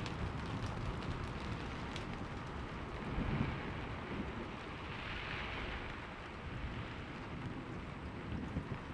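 Steady rain with a low thunder rumble trailing off after a clap just before, swelling briefly again about three seconds in, with scattered drops ticking.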